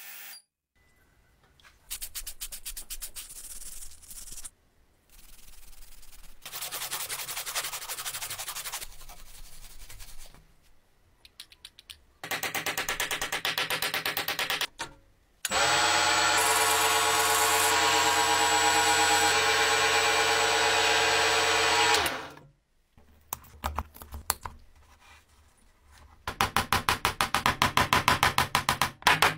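Workshop tools on wood in a string of short separate bursts: a small power tool runs steadily for several seconds, and other passes have a fast, even, rasping stroke like sanding.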